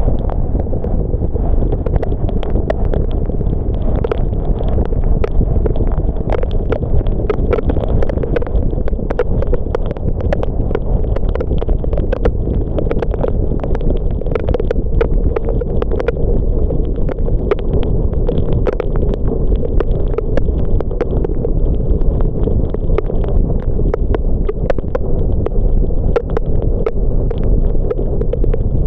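Car driving in rain: a steady low rumble of road and tyre noise, with many irregular raindrop ticks on the car.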